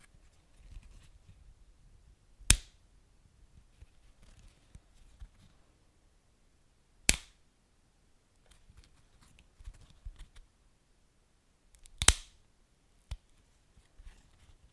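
Wood fire burning in a fireplace: soft crackling with three loud, sharp pops about five seconds apart and a smaller pop near the end.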